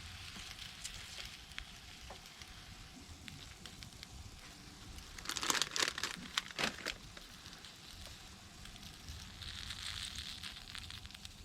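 Quiet crackling with scattered small clicks, and a brief crinkling rustle about five seconds in.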